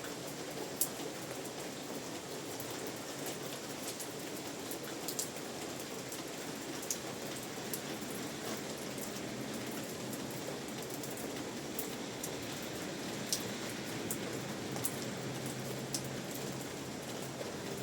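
Steady rain falling, an even hiss with scattered sharper drips and taps of individual drops.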